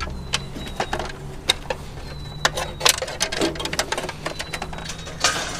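Irregular clicks and light clanks of scrap metal being handled and sorted, over a steady low hum.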